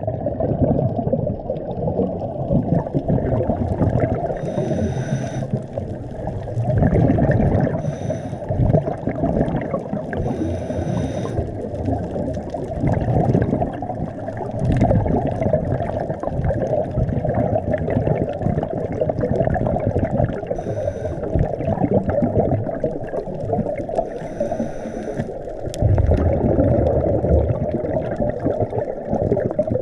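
Muffled underwater noise through a camera housing, with a scuba diver's regulator hissing on inhales every few seconds and exhaled bubbles surging in low rumbles.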